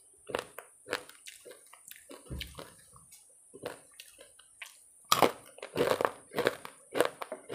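Close-miked chewing of crisp fried musur dal bori (lentil dumplings) with rice: wet mouth sounds and sharp crunches, sparse at first and coming thick and fast over the last couple of seconds.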